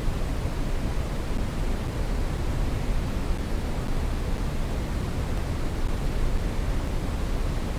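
Steady brown noise: an even, featureless rushing hiss weighted heavily toward the bass and low mids, without change.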